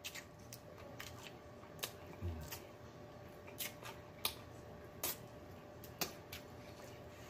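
Eating fried chicken: irregular wet mouth clicks and lip smacks, about one or two a second, while chewing and stripping meat off a chicken leg bone.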